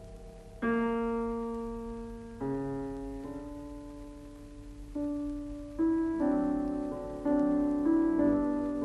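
Solo piano playing slow, sustained chords, each struck and left to fade, with the chords coming closer together in the second half.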